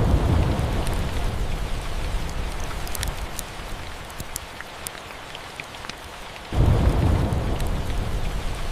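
Steady rain with two rolls of thunder, the first right at the start and the second about six and a half seconds in, each a deep rumble that starts suddenly and fades over a few seconds. Scattered sharp crackles from a fireplace run through it.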